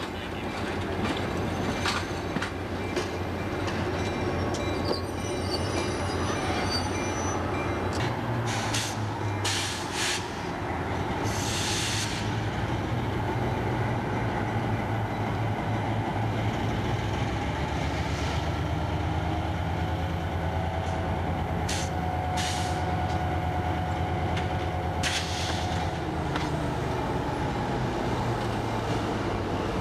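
Passenger train rolling slowly past: steel wheels clicking and rumbling over the rails, with a thin wheel squeal for several seconds past the middle. A diesel switcher's engine runs underneath, its low pulsing hum growing stronger in the second half.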